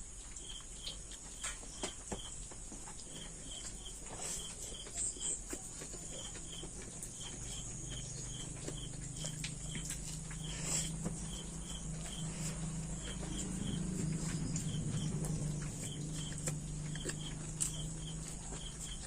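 Small wet clicks and smacks of a person eating rice with curry by hand, over a steady low hum and regular high chirps coming in pairs.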